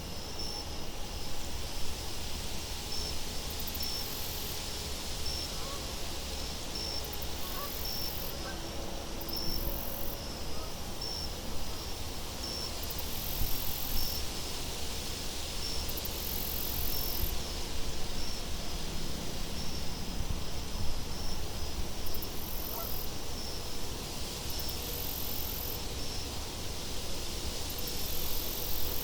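Nature ambience: a steady wind with a low rumble, and short high chirps repeating evenly about once a second.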